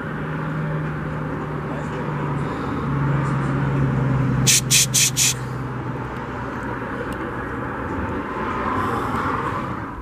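Steady vehicle running noise with a low engine hum that drops slightly in pitch about a third of the way in, and four short sharp bursts of noise in quick succession about halfway through.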